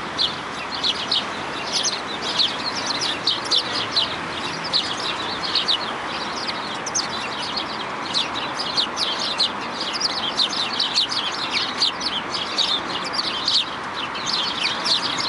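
Many small birds chirping together, short sharp calls overlapping several times a second without a break, over a steady background noise.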